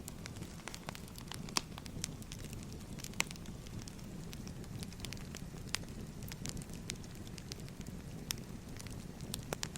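Wood fire crackling: logs burning with a steady low rumble and frequent sharp, irregular pops.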